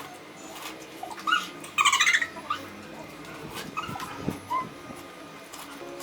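Loud slurping and sucking mouth sounds of noodles being eaten straight off a plate without hands, in a few short squeaky bursts, the loudest about two seconds in.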